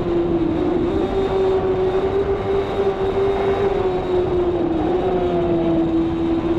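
Racing motorcycle engine held at high revs at full speed, a steady high-pitched drone over rushing noise, with brief small dips in pitch about a second in and again near five seconds.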